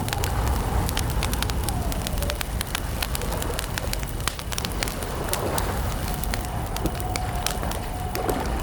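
Wood campfire crackling, with frequent irregular sharp pops over a low rumble of the flames. A faint drawn-out tone sounds underneath, steadier in the second half.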